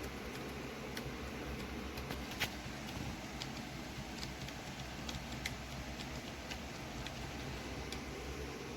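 Steady low hum and hiss of background room noise, with a few faint, scattered clicks.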